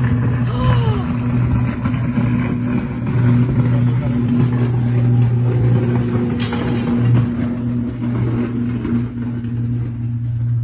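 An arcing power line gives a loud, steady electrical buzz: a low hum with a higher overtone above it. A brief sharp crackle comes about six and a half seconds in.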